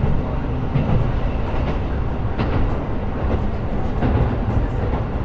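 KiHa 125 diesel railcar running along the line: a steady low rumble of engine and wheels on rail, with occasional light clicks from the wheels.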